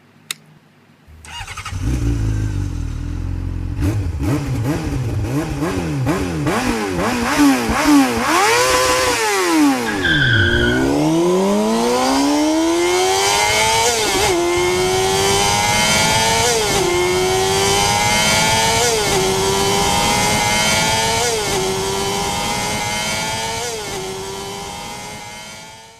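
Motorcycle engine, likely the Benelli TRK502 parallel-twin, revving up and down for several seconds, then pulling away and accelerating, its pitch climbing and dropping back at each of several upshifts. The sound fades out near the end.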